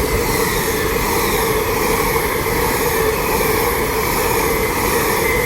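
LNER Azuma (Class 801) high-speed train passing through the station without stopping: a loud, steady rushing noise of wheels and air, with steady whining tones from its traction equipment.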